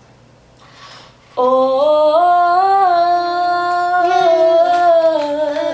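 A girl singing one long held note without words, starting about a second and a half in and rising slightly in pitch.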